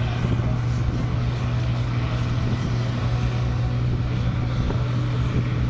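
International Harvester 956 XL tractor's diesel engine running at a steady, unchanging speed, with no revving.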